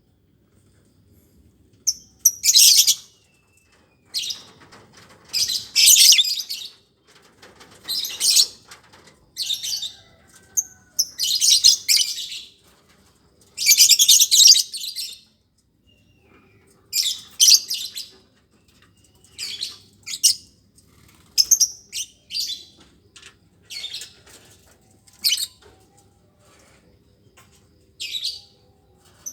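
Lovebirds calling in repeated bursts of high-pitched chirping, each lasting up to about a second, with short pauses between.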